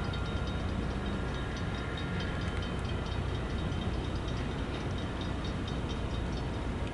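San Joaquin Valley Railroad diesel locomotive at work switching cars, a steady low rumble with fast, high-pitched ticking over it.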